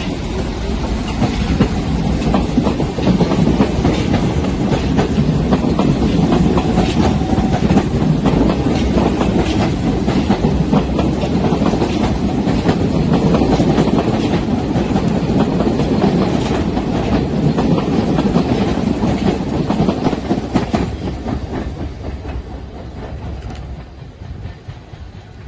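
New York City subway R68A train running on the tracks, wheels clacking over rail joints with a steady rumble; the sound fades away over the last few seconds.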